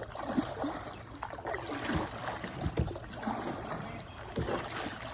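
Water trickling and sloshing around a canoe, with a few sharp knocks near the middle.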